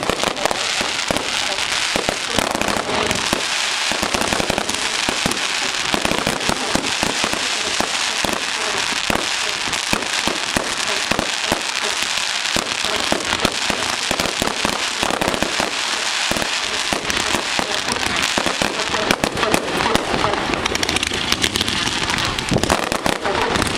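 Consumer fireworks grand finale: a dense, unbroken barrage of shots and aerial bursts, many bangs a second, with crackle throughout.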